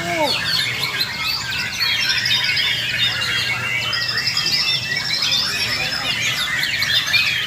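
Several white-rumped shamas singing at once in a dense, overlapping chorus of rapid whistles, trills and harsh calls, as in a murai batu singing contest.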